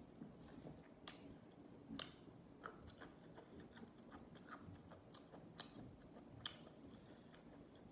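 Close-up chewing of raw vegetables, with sharp crisp crunches every second or so; the loudest come about two seconds in and again near the end.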